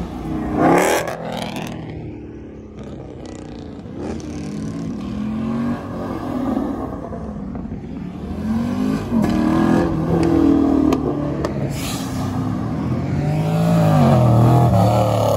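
Car engines revving and accelerating, their pitch climbing and dropping again several times. The loudest rev comes near the end.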